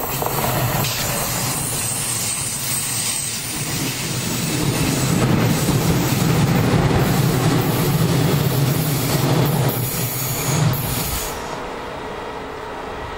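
ÖBB Talent electric multiple unit passing close on a curve: a steady rumble of wheels on rail. It builds about four seconds in and drops off sharply about eleven seconds in as the train clears.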